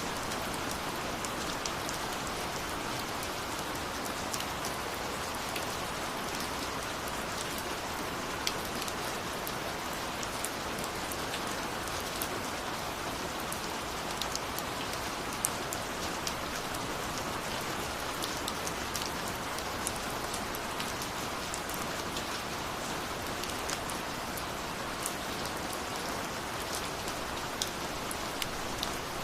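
Steady rain falling, an even hiss with many individual drops ticking sharply on a surface throughout.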